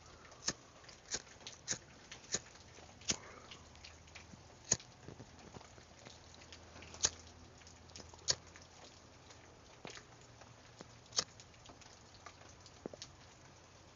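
Rain drops dripping onto a hard surface in sharp, irregular single clicks, about ten of them, over a faint steady hiss of falling rain.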